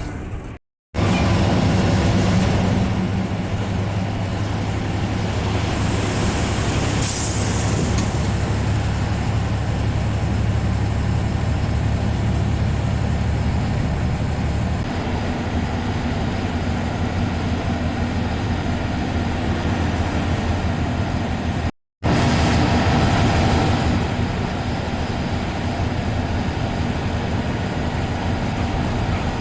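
Diesel bus engine running at steady cruise with road and cabin noise, heard from the driver's cabin, with a short hiss about seven seconds in. The sound drops out twice for a moment.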